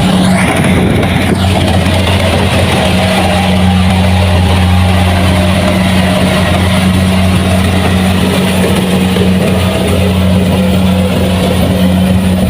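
Kubota rice combine harvester running steadily under load, its engine holding an even drone over the clatter and rush of the threshing machinery.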